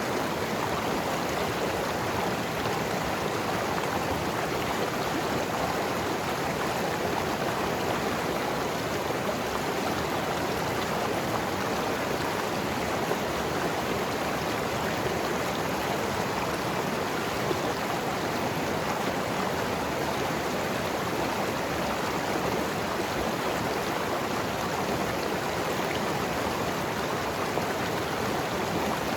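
Mountain river flowing and gurgling over rocks, a steady even rush of water.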